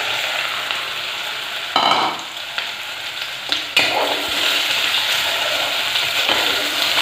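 Taro root (arbi) pieces sizzling as they start to fry in hot oil in a pressure cooker, stirred with a metal ladle that scrapes the pot, with a few sharper knocks against the pot about two and four seconds in.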